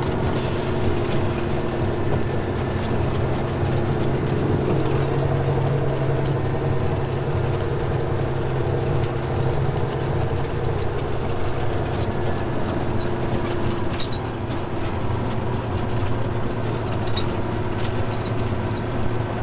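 Peterbilt 379 dump truck's diesel engine running steadily at low speed, its pitch rising a little a few seconds in, with a few faint ticks over it.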